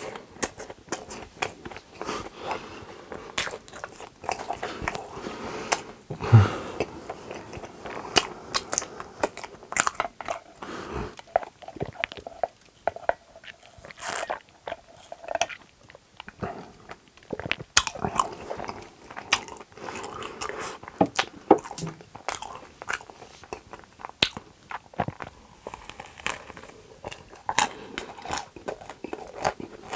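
A person chewing and biting close to the microphone, eating a cream-filled waffle sandwich and donuts, with crunches and many sharp, irregular mouth clicks. There is one louder thump about six seconds in.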